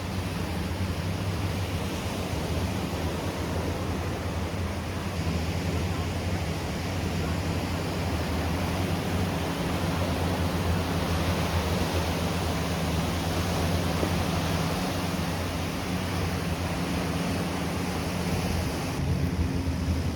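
Sea surf washing steadily onto the beach, with a low steady hum underneath.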